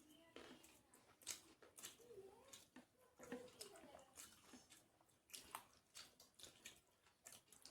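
Quiet chewing and eating sounds of a person eating a rice meal: irregular soft mouth clicks and smacks.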